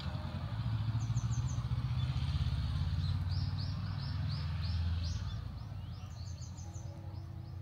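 A bird chirps in three quick runs of short repeated notes over the steady low hum of a vehicle engine.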